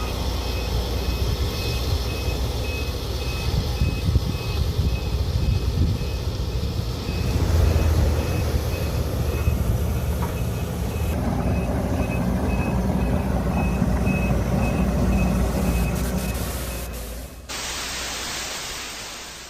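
Heavy diesel machinery running steadily, with a high electronic alarm beeping about twice a second. Near the end the sound changes abruptly to a brighter hiss.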